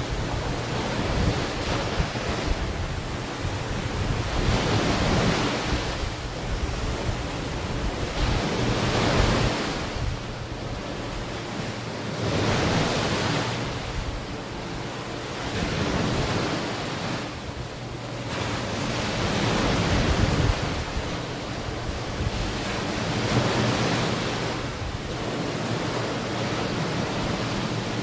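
Ocean waves breaking and washing onto a beach, the surf swelling and easing every few seconds, with wind buffeting the microphone.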